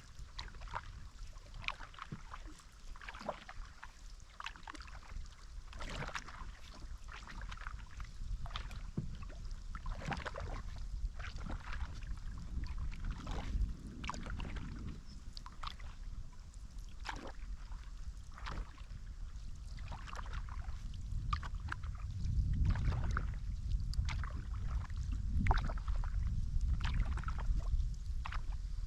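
Canoe paddle strokes dipping and pulling through river water, a splash roughly every second. Wind rumbles on the microphone, heavier in the last third.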